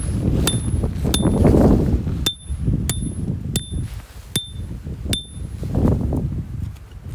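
A series of sharp metallic strikes, each with a short ringing ping, coming about every two-thirds of a second and stopping about five seconds in, over steady wind rumble on the microphone.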